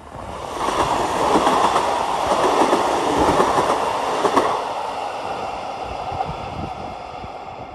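Class 33 diesel locomotive and its coaches running along a station platform: a loud rushing rumble for the first few seconds that then slowly fades.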